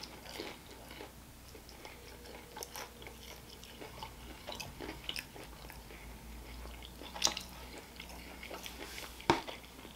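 Close-up chewing of a heavily breaded fried shrimp: soft, wet mouth sounds with light crunching of the batter, and two sharper crunches in the second half.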